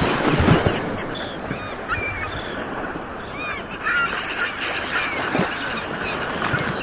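Ocean surf washing onto a shore, with a louder wave surge about half a second in, and many short bird calls scattered over it.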